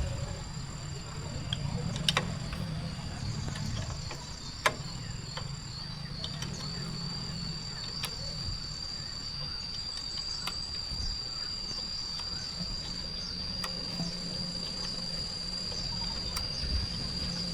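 Insects trilling in a continuous high, slightly wavering tone over a low steady hum, with a few sharp clicks, the loudest about four and a half seconds in.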